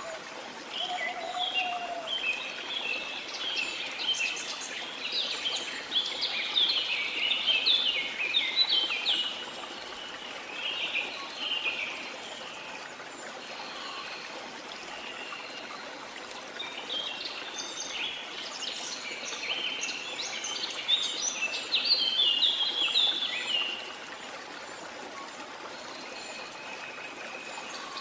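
Songbirds singing in quick runs of high chirping notes, in two long bouts (the first from about a second in, the second in the latter half), over a steady rush of flowing water.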